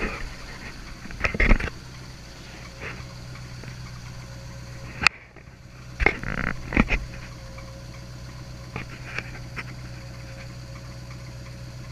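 Inboard marine engine of a Carolina Classic 25 boat idling steadily after a cold start, its risers and exhaust manifolds new. A few loud knocks and thumps break over the idle, including a sharp click about five seconds in.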